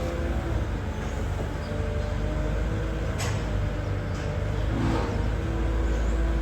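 A tractor running steadily with a low rumble, with one sharp click about three seconds in.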